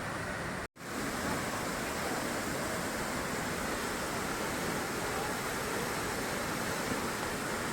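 Steady rush of a waterfall's falling water, broken by a brief dropout just under a second in.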